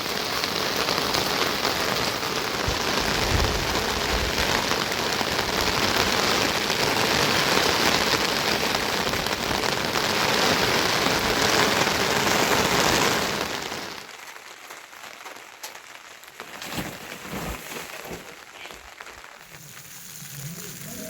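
Heavy rain falling in a dense, steady hiss. About two-thirds of the way through it drops off suddenly to a much quieter background with scattered light knocks and clicks.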